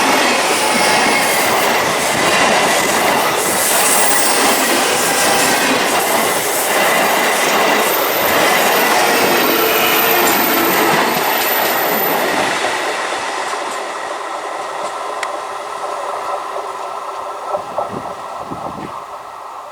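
12-coach electric multiple unit local train running past on a curve: a loud steady rush of wheels on rail with clickety-clack and wheel squeal, fading away from about two-thirds of the way through, with a few sharp clicks near the end.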